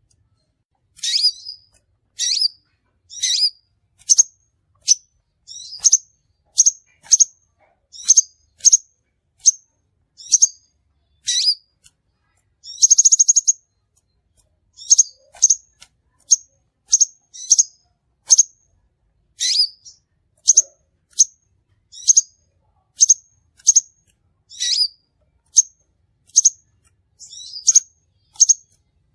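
Crimson sunbird calling: a steady series of short, sharp, high chirps, about one a second and sometimes in pairs, with one brief buzzy trill about 13 seconds in.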